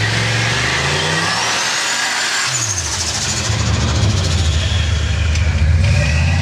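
Turbocharged Ford Crown Victoria's V8 revving hard: the engine note climbs, drops about two and a half seconds in, then is held high and steady for a few seconds while the rear tyres spin and smoke in a burnout.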